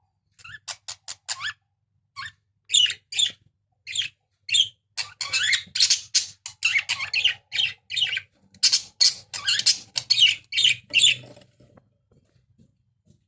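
Budgerigars chirping and chattering in quick runs of short, high calls, busiest in the middle and dying away a second or so before the end.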